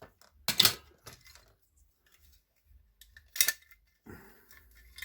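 Small metal parts and tools being handled on a workbench: two sharp clinking clacks, about half a second in and at about three and a half seconds, with faint small clicks between.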